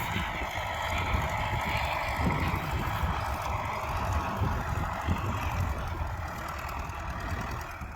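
U650 tractor's four-cylinder diesel engine running steadily, with a strong low rumble. It cuts off abruptly at the very end.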